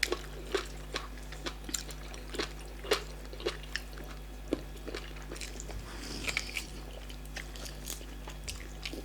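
Close-miked eating: irregular wet mouth clicks and chewing of starch fufu and black soup, about one or two a second, over a steady low electrical hum.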